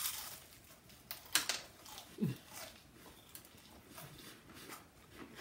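Close-up eating sounds of a man chewing a bite of crunchy sandwich: a few scattered crunches and mouth clicks, with a brief low vocal sound about two seconds in.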